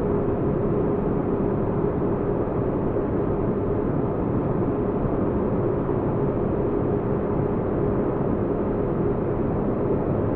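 Sci-fi spaceship-interior ambience: a steady, deep rumbling drone with a faint even hum tone running through it, unchanging throughout.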